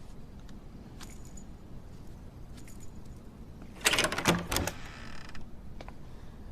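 A short burst of mechanical clattering and creaking about four seconds in, trailing off into a brief hiss, over faint room tone with a few light ticks.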